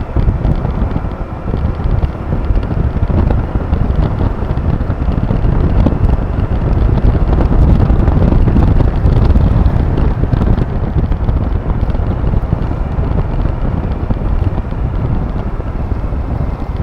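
Wind buffeting the microphone on a moving Honda Click 125 scooter, a heavy low rumble that swells about halfway through, with the scooter's running engine and road noise mixed in underneath.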